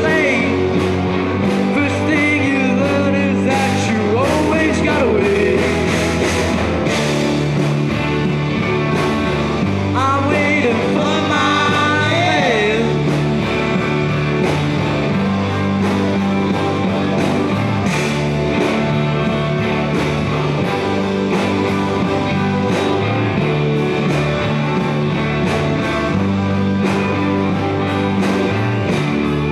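Live rock band of electric guitars, bass, drums and organ playing an instrumental passage at a steady driving beat, with a wavering, sliding lead line near the start and again about ten seconds in.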